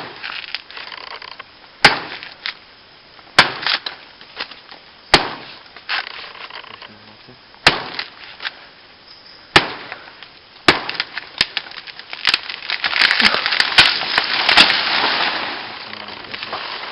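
Machete chopping into the soft stem of a wild banana plant: sharp single chops about every one to two seconds, coming faster near the end, with a swell of rustling noise over the last few seconds.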